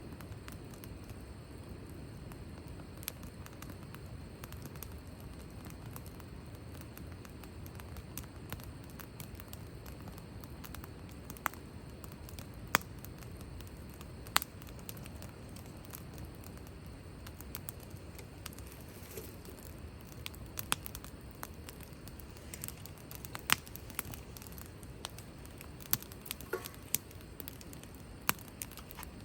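Wood fire crackling, with scattered sharp pops and snaps over a low steady rush. The pops come more often in the second half.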